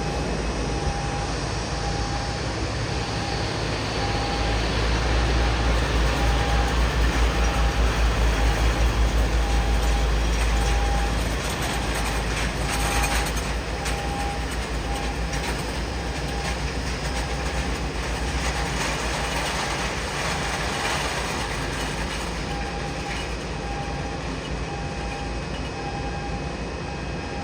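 Airport apron noise with a repeating warning beep, about once a second, typical of a boarding bridge moving toward a parked airliner's door. A heavy low rumble swells about four seconds in and eases off after about eleven seconds.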